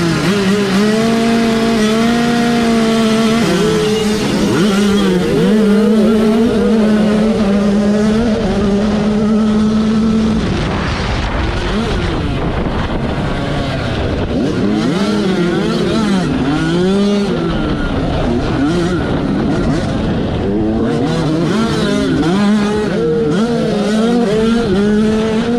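Yamaha YZ85 two-stroke motocross bike engine held at a steady high pitch for about ten seconds, then revving up and down repeatedly, with other bikes' engines mixed in.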